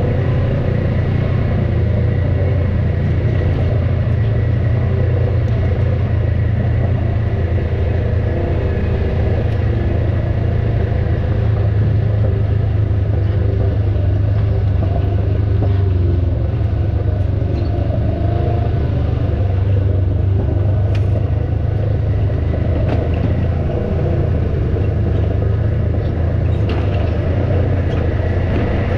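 Off-road vehicle's engine running steadily at low revs, a continuous low rumble.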